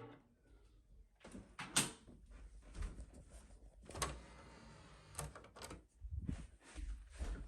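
Handling noise: a series of sharp clicks and knocks, some seven of them, the loudest about two and four seconds in, over low rustling and rumbling of something being moved close to the microphone.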